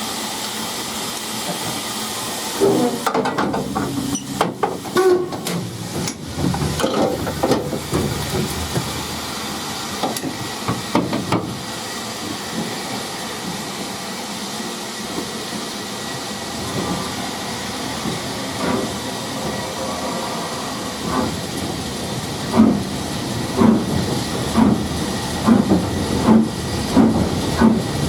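Steam locomotive hissing steam, with a run of metallic clanks and knocks early on. Near the end come regular exhaust beats a little under a second apart, as the engine works slowly.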